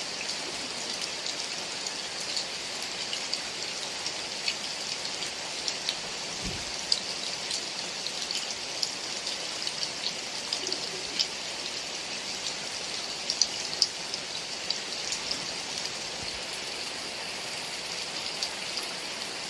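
Heavy rain falling steadily, with scattered sharper ticks of single drops hitting a surface close by.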